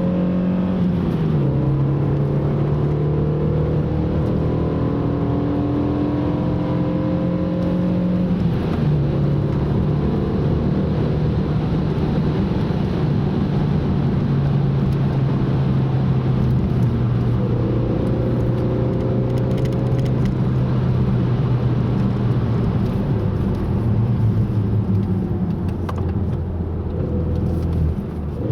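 Car engine pulling steadily, its note dropping in sudden steps about a second in and again near nine seconds as the car shifts gear, over a constant rush of road noise.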